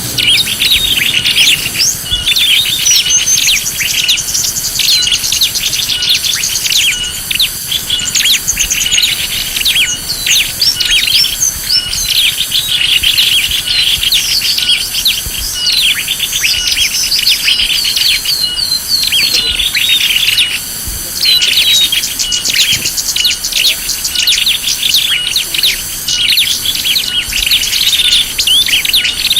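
Many small birds chirping and twittering densely and continuously: a small-bird lure call recording.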